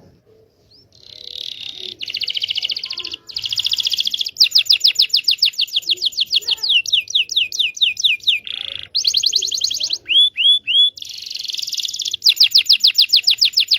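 Local Indonesian canary singing a lure song: dense rapid trills and runs of fast repeated downward-sweeping notes, several a second, with three separate sharp notes about ten seconds in. It is a song played to coax silent or young canaries into singing.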